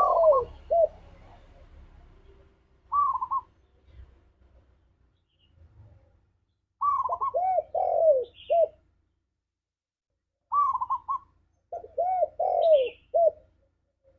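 Male spotted dove cooing in repeated phrases of several hooting notes, with pauses of a second or more between phrases. This is a vigorous advertising call of the kind used to provoke other doves into answering.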